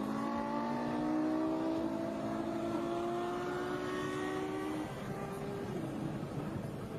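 Car engines accelerating hard, their pitch climbing slowly and steadily for about five seconds, then dropping back near the end.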